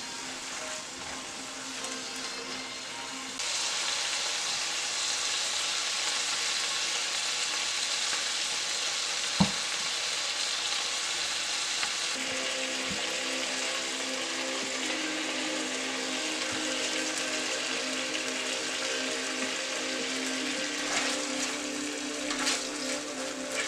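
Shrimp frying in oil with garlic and ginger in a pan: a steady sizzle that gets louder about three seconds in. There is one sharp click around the middle and a few lighter clicks near the end.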